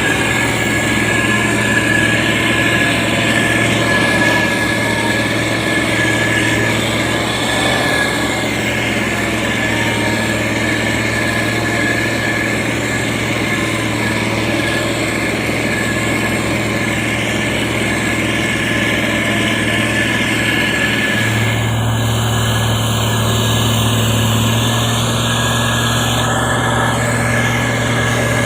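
Diesel engine of heavy road-construction machinery running steadily, with a slight change in its note about three quarters of the way through.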